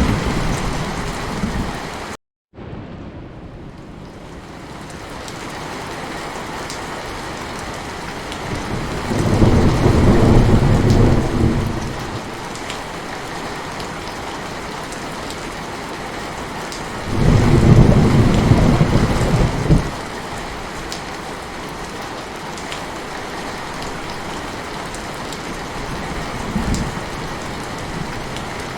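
Heavy rain falling steadily, with rolling thunder rumbling low twice, about nine and seventeen seconds in, each lasting a few seconds. About two seconds in, the sound cuts out completely for a split second and the rain fades back in.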